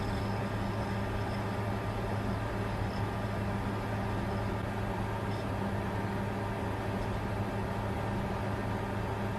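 Bitcoin mining computer running: a steady rush of noise with a constant low hum underneath.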